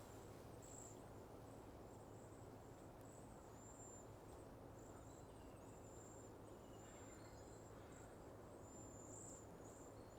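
Faint, very high, thin lisping calls of cedar waxwings, short notes strung along one high pitch, over a quiet outdoor background.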